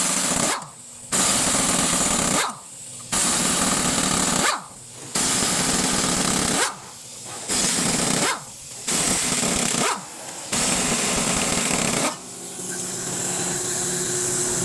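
A loud hissing machine noise, like a power tool or air blast, starting and stopping about seven times in bursts of one to one and a half seconds with short pauses between. Near the end it settles into a steadier, slightly quieter run with a low hum.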